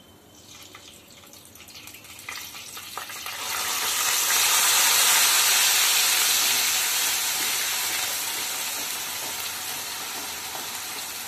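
Onion paste frying in hot mustard oil in a kadai while it is stirred with a wooden spatula. A few light knocks come first, then the sizzle swells about three seconds in and slowly dies down.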